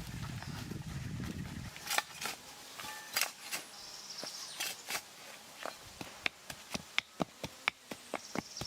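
A fly buzzing close by for under two seconds, then a series of sharp knocks on wood, scattered at first and then coming quickly and evenly, about three a second, toward the end, like hammering.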